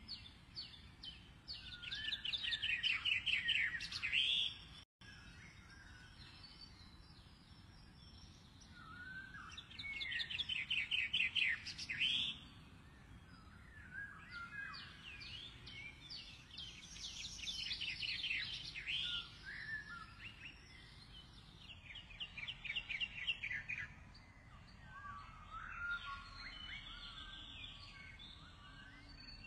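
Small birds chirping in bouts of rapid, high repeated notes, each run lasting a couple of seconds. The loudest runs come near the start and about ten seconds in, and softer runs follow.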